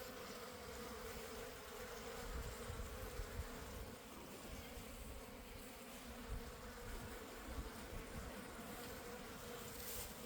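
Honey bees buzzing in a steady, faint drone around an opened hive.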